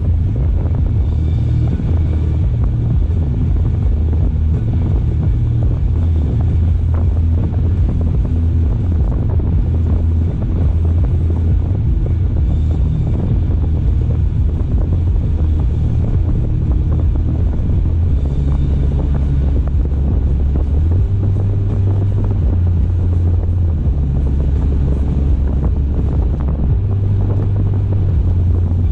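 Car driving, with a steady low rumble of road and wind noise; its low drone shifts in pitch a few times in the second half.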